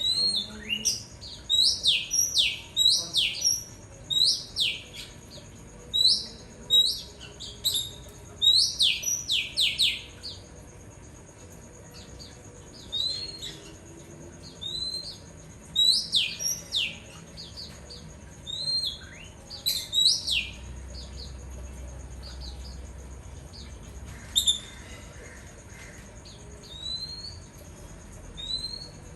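Oriental magpie-robin singing: rapid runs of loud whistles that slide steeply downward, packed close together for the first ten seconds or so, then coming as sparser, scattered phrases.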